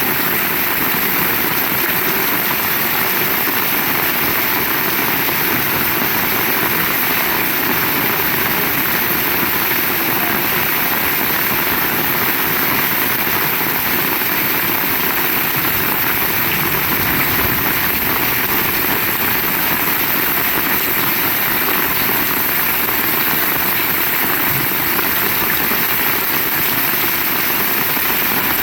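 Heavy rain falling steadily, an even unbroken hiss and patter.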